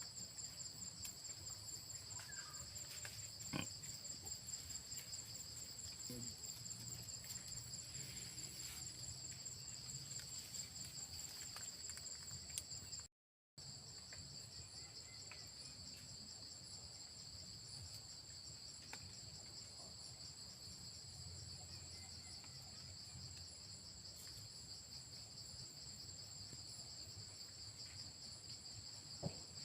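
Insects trilling in a steady, high-pitched chorus, with a fast pulse in the upper trill. The sound cuts out briefly about 13 seconds in, and a couple of faint knocks can be heard.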